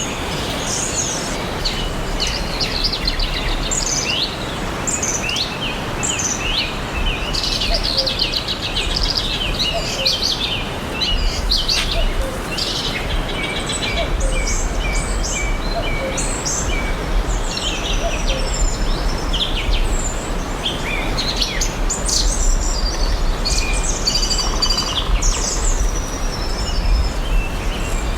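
Several wild songbirds chirping and singing, with overlapping short chirps, trills and whistles throughout, over a steady background hiss and low rumble of outdoor ambience.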